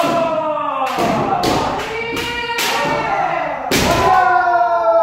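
Kendo sparring: long, drawn-out kiai shouts from several fencers overlapping, cut by about five sharp impacts from shinai strikes and stamping feet.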